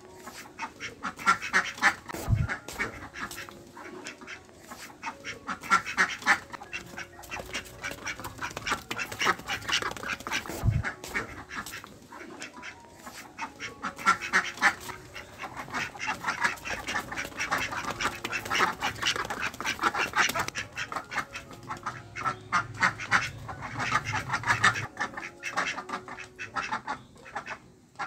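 Ducks quacking in rapid, overlapping runs that swell and fade every few seconds, with two short low thumps, about two and eleven seconds in.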